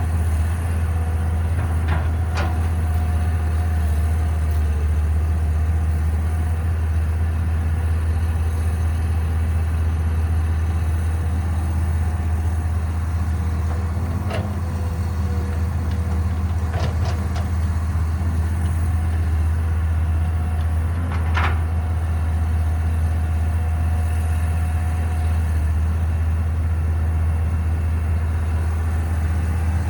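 Caterpillar 312B excavator's diesel engine running steadily with a low drone. A few short sharp clanks come through it, about two seconds in, near the middle, twice in quick succession a little later, and once more about two-thirds of the way through.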